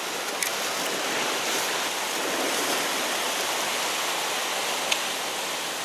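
Sea surf washing steadily against the shore rocks, a constant rushing hiss.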